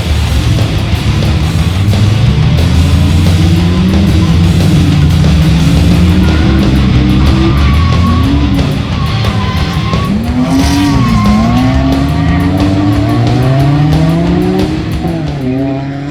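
Drift car on track, its engine revving up and falling back again and again while the tyres squeal in long slides, over rock music.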